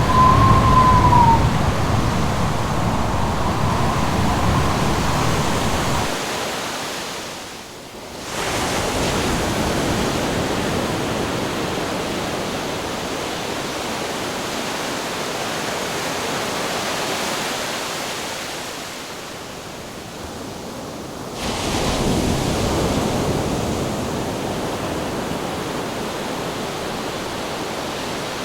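Ocean surf rushing steadily, fading down twice and cutting back in. A low rumble sits under the first few seconds, and a thin whistle-like tone at the very start bends down and stops after about a second.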